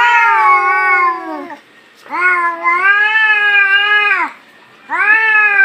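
Domestic cats yowling at each other in a fight: three long, drawn-out yowls, each about two seconds, with short pauses between.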